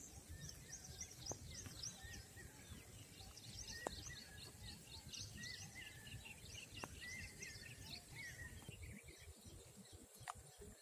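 Faint chorus of small birds, many quick high chirps repeating over a low outdoor background hum, with an occasional faint click.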